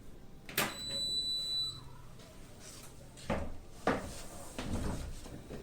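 Washing machine on a delicate cycle: a click and a high electronic beep about a second long near the start, then several swishes and soft thumps as the drum turns the laundry in water.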